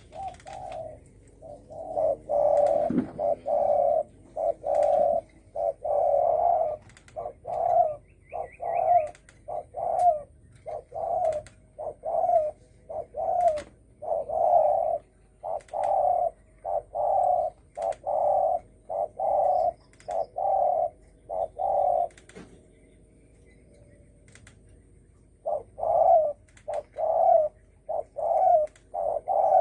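Spotted dove (cu gáy) cooing in a long run of low coos, about one a second, with a pause of a few seconds near the end before it starts again. It is a 'thổ sấm' song, the deep cooing that keepers play to provoke wild males.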